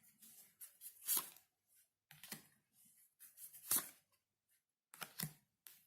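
Tarot cards being handled and laid out on a table: four or five short, crisp paper rustles and taps with silence between them.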